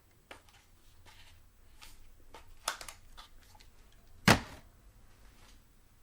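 Light handling clicks and knocks, with one sharp thump about four seconds in.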